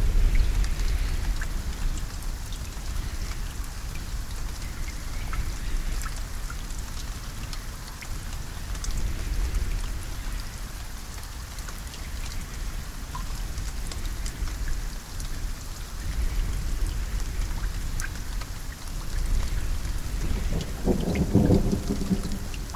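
Steady rain falling, with individual drops ticking over the hiss. Low thunder rumbles under it, heaviest at the start and swelling again near the end.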